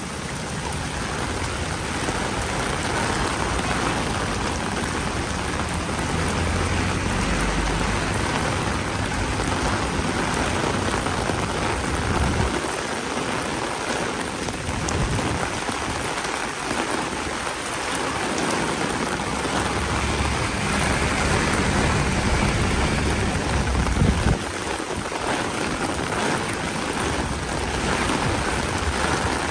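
Steady rain falling, a continuous even hiss of drops hitting the street. Under it a low rumble swells and fades, breaking off sharply about twelve seconds in and again about twenty-four seconds in.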